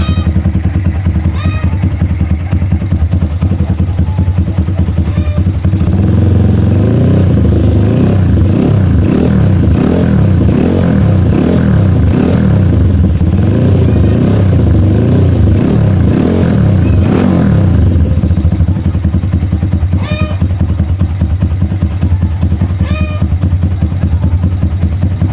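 Honda MegaPro motorcycle's single-cylinder four-stroke engine through an RMS competition exhaust, idling steadily. About six seconds in it is blipped up and down repeatedly for about twelve seconds, then it settles back to idle.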